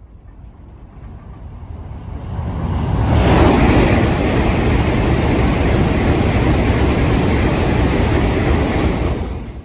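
Tokaido Shinkansen train passing at high speed over the railway bridge directly overhead: the noise builds over about three seconds into a loud, steady rush of wheels and air, then starts to fall away near the end.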